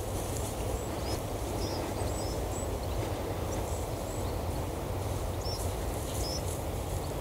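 Small birds chirping: scattered short, high chirps over a steady low rushing noise.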